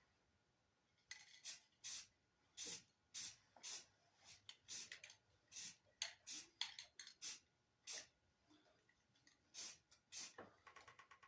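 Aerosol can of Rust-Oleum high-heat spray paint hissing in many short bursts at an uneven pace, with a brief pause about three-quarters of the way through, as primer goes onto a lawnmower exhaust header.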